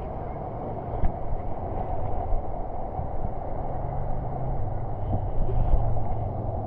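Underwater ambience through a camera housing: a steady rush of water with a low rumble and a couple of sharp clicks, about a second in and again near the end.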